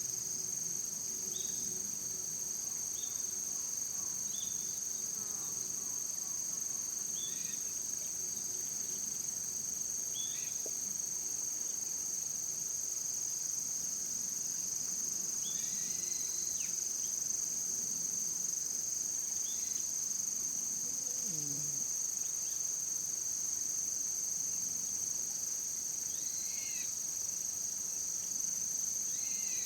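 Steady high-pitched chorus of insects trilling without a break. Short chirps that slide downward come every few seconds.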